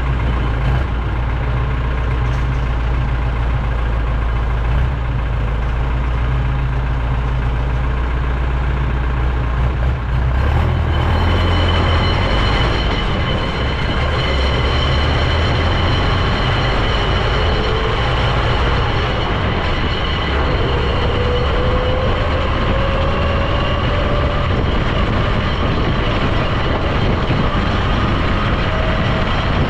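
Heavy vehicle on the move, its engine and drivetrain making a loud, steady low rumble. About eleven seconds in the sound changes, and after that a faint whine rises slowly in pitch as the vehicle picks up speed.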